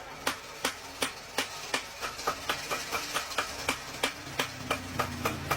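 A rapid run of sharp, evenly spaced knocks or chops, about three a second at first and quickening to about five or six a second about two seconds in.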